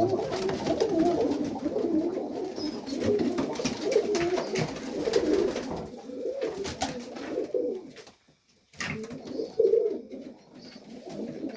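Domestic pigeons in a loft cooing, several birds overlapping, with scattered light clicks and shuffles; the cooing stops briefly a little past the middle, then resumes.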